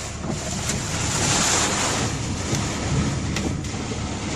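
Hailstorm: a steady rushing of wind and hail, with a few sharp hits of stones striking near the end.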